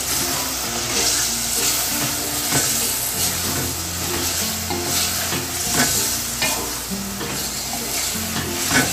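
Minced meat and chopped tomatoes sizzling on high heat in an aluminium pot while being stirred, the spoon scraping and knocking against the pot again and again, the loudest scrape near the end.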